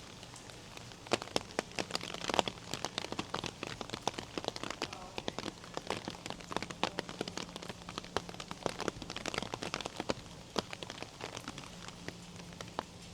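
Rain, with many separate drops striking close to the microphone in quick, irregular ticks from about a second in, thinning out near the end.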